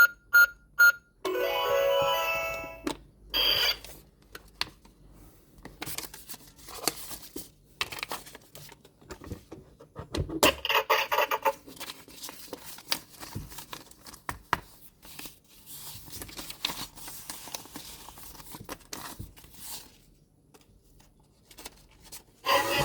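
An electronic toy gives three short beeps, then plays a short electronic tune about two seconds long. After that come scattered clicks and crinkly rustling of plastic packaging being handled, busiest about ten seconds in.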